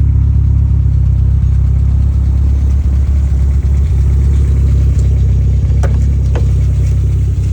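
BMW E30 M3's S14 four-cylinder engine idling steadily, with the engine knock it is being recorded for. Two short sharp clicks sound about six seconds in.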